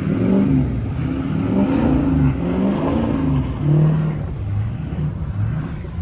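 Ford 6.0 Powerstroke V8 turbodiesel revving up and down several times under hard throttle, with a high whistle rising and falling with the revs.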